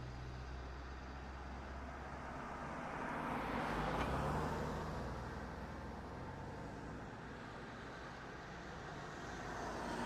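A car driving past: a low engine hum under road noise that swells to a peak about four seconds in and fades, then begins to swell again near the end.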